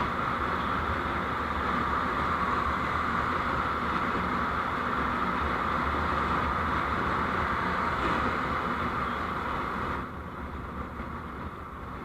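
Steady road and engine noise of a vehicle on the move, dropping suddenly in level about ten seconds in.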